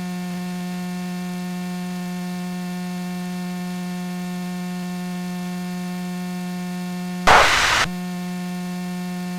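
Steady electrical hum with a buzzy stack of even overtones on the aircraft's intercom audio feed. About seven seconds in comes one brief loud burst of noise as the channel opens for about half a second.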